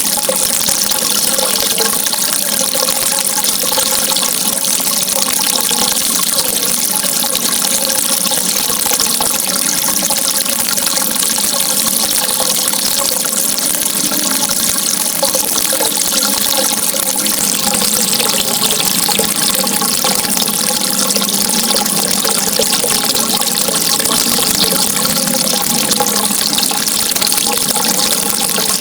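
Flowing water, a continuous rushing and hissing with no breaks. Faint steady tones sit under it.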